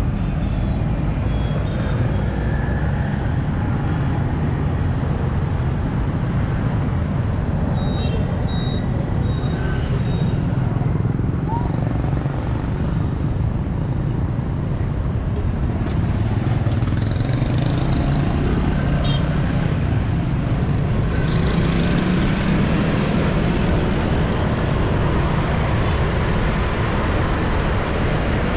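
City street traffic, mostly motorbikes, running steadily past a bicycle, with a few short high beeps about eight to ten seconds in.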